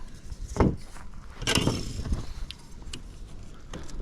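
Lionel toy train track sections being handled and fitted together: a knock about half a second in, a longer scraping rustle a second later, then a few light clicks.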